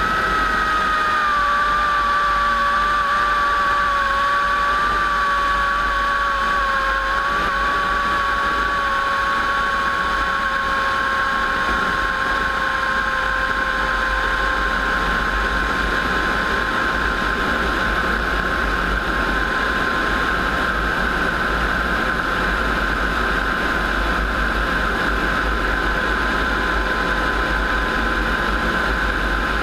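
WWII piston-engined warbird running steadily. Its engine tone drops slightly over the first ten seconds and then holds level.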